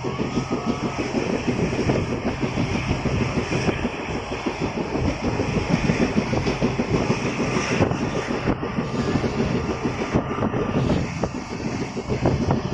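A train running along the track, heard from aboard beside an open window: a steady rumble with a dense rattle of wheels and carriage.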